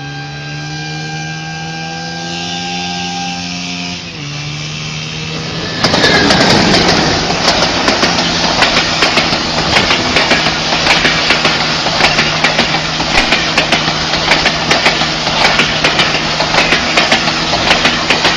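A vehicle engine running with a steady hum whose pitch creeps up, then drops about four seconds in. From about six seconds in a loud rushing, clattering noise sets in over it and keeps on.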